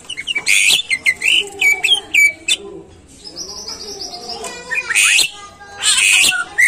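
Green leafbird (cucak ijo) singing loudly: quick varied whistled notes broken by harsh rasping calls, a high warbling phrase about halfway through, and a rapid trill just after it.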